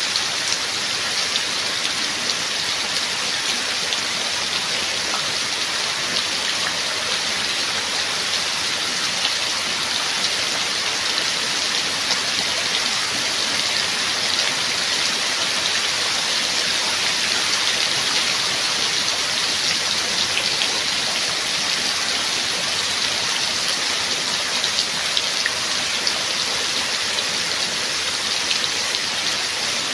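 Steady rain falling, a dense even hiss of many small drops hitting a surface, with no thunder.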